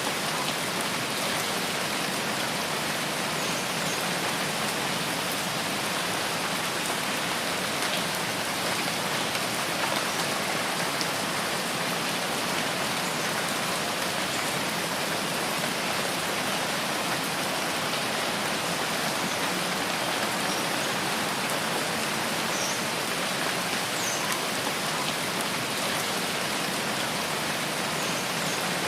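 Steady rain falling on foliage in a rain forest, an even unbroken hiss, with a few faint short high chirps now and then.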